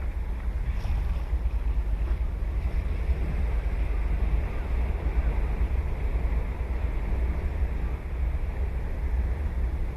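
Ocean surf washing steadily on the beach, with a heavy, fluttering low rumble from wind on the microphone.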